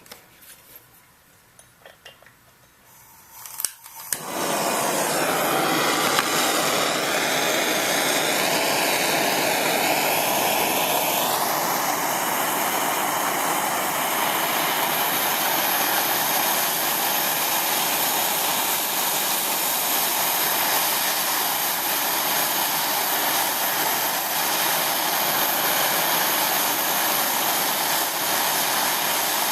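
A few clicks, then a MAPP gas torch lights about four seconds in. It burns with a loud, steady hiss as it heats a cracked aluminum oil pan for brazing, with a faint wavering whistle in the flame's first several seconds.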